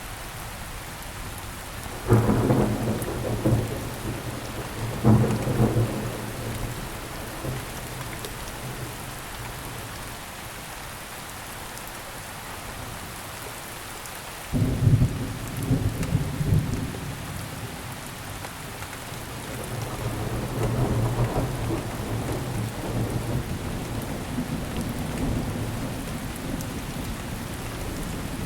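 Steady rain falling, with thunder: two sharp claps a few seconds in, a third about halfway, then a longer rolling rumble.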